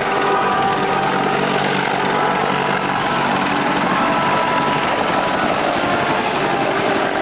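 Helicopter in flight, its engine and rotor making a loud, steady noise.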